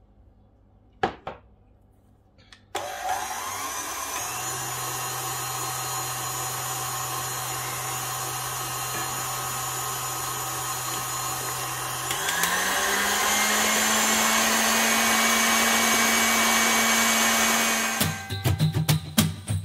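KitchenAid Artisan stand mixer with a wire whisk, switched on about three seconds in and beating eggs into creamed butter and sugar. About twelve seconds in it is turned up to high speed, and its motor hum rises in pitch and gets louder. Near the end it gives way to festive music with jingling bells.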